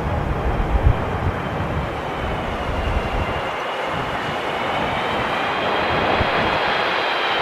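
Twin-engine jet airliner approaching to land, its engine whine of several high tones slowly growing louder through the second half, with strong gusting wind buffeting the microphone.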